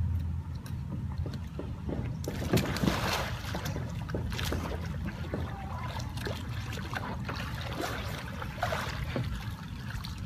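Water splashing and sloshing as a sea kayak capsizes, starting about two seconds in, and is rolled back upright, over a low wind rumble on the microphone.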